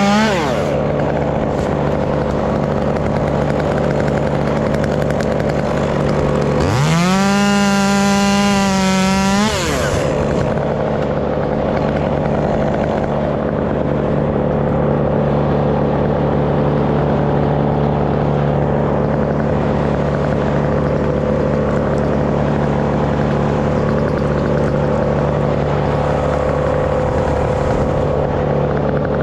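Stihl MS 201 top-handle chainsaw idling, revved to high speed for about three seconds partway through, its pitch wavering while on throttle, then dropping back to idle.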